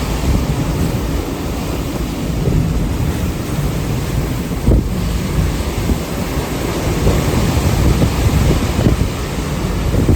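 Hurricane eyewall winds blowing hard and gusting, buffeting the microphone, with a short louder gust or knock about five seconds in.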